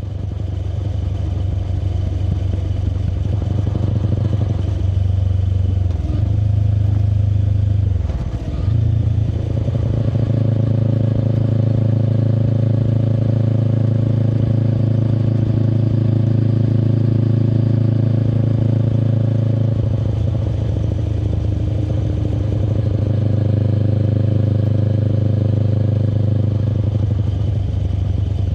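Exhaust of a 2024 Kawasaki Eliminator SE's 398 cc parallel-twin through a BEAMS Power Header W full system, heard while riding. The engine note climbs, dips briefly at a gear change about eight seconds in, then holds steady at cruising speed.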